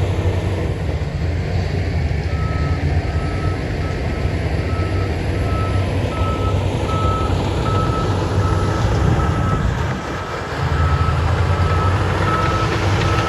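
A heavy construction vehicle's reversing alarm beeping about twice a second, starting a couple of seconds in, over the steady running of its diesel engine. The engine drops briefly about ten seconds in.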